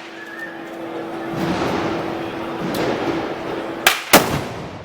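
Two sharp black-powder gun blasts about a quarter of a second apart, of the kind fired by arcabuceros in a Moros y Cristianos festival. They come near the end, over the noise of a crowd.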